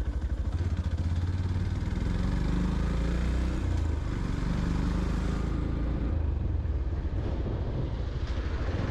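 Motorcycle engine running while riding, with a steady low rumble and the rush of wind and road noise; the wind noise eases about halfway through.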